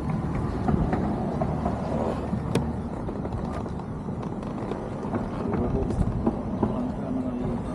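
Steady wind rush and road noise from a BMW S1000RR motorcycle riding at speed, with a few faint clicks.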